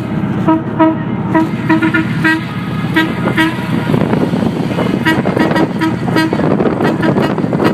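A vehicle horn tooted over and over in short beeps, about two a second, in two runs with a pause of a second or so in the middle, over the steady rumble of motorcycle engines.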